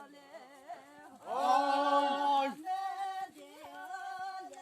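Unaccompanied voices singing a chant-like traditional folk song in long held notes; the loudest held note starts about a second in and lasts over a second.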